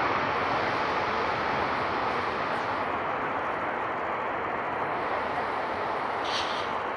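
Aircraft engine noise: a steady, loud rush that slowly fades as the plane moves away.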